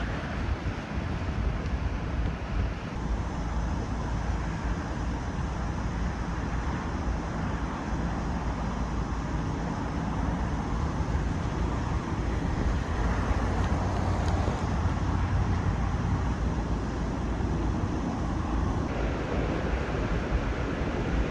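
Strong wind rumbling on the microphone over a steady rush of road traffic.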